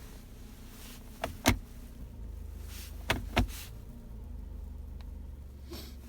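Car engine idling with its Jatco JF016E CVT being shifted between D and R. Twice a click is followed about a third of a second later by a louder knock, about a second and a half in and again about three seconds in, with a further click near the end. The knock is the transmission's jolt on engagement, a fault whose cause the owner does not know and says is worse in frosty weather.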